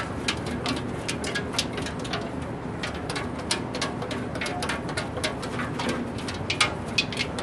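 A small loose anchor rattling and clicking inside an emptied metal motorcycle gas tank as the tank is shaken and tipped to get it out: many irregular sharp clicks.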